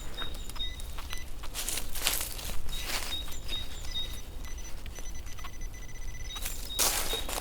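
Footsteps crunching through forest leaf litter, a handful of short steps, with faint high thin tones coming and going behind them.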